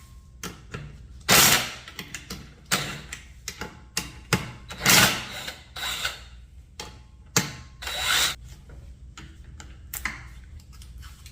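Tools working on the bolts of a Honda Gold Wing engine's sump pump: irregular metallic knocks, clicks and short scraping bursts, the sound of working stubborn, near-stripped bolts loose.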